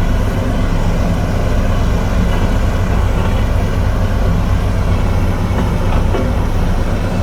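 Komatsu D58E bulldozer's diesel engine running steadily, a loud low drone.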